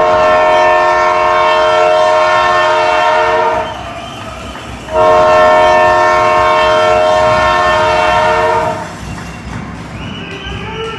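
Hockey arena horn sounding two long, loud blasts of about three and a half seconds each, with a pause of about a second between them.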